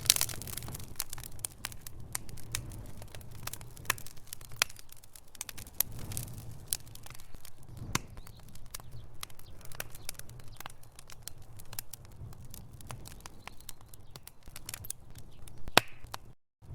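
Logs burning in a fireplace, crackling and popping continuously over a low rumble of the flames, with a louder pop at the start and another near the end. The sound cuts out completely for a moment just before the end.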